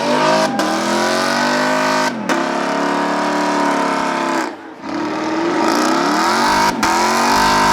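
Car engine revving hard several times, its pitch climbing and falling, with brief drops in between.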